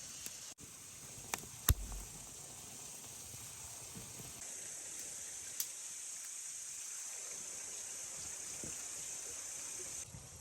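Steady high-pitched hiss that grows louder about four seconds in and drops away near the end, with a few sharp clicks in the first two seconds.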